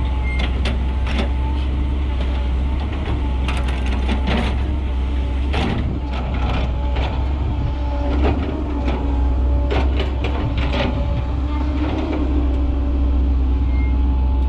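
Mercedes Atego dump truck's diesel engine running steadily, with frequent short knocks and rattles on top.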